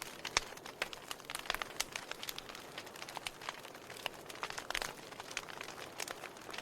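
Burning firewood crackling in a fireplace: irregular sharp pops and snaps, several a second, over a faint steady hiss.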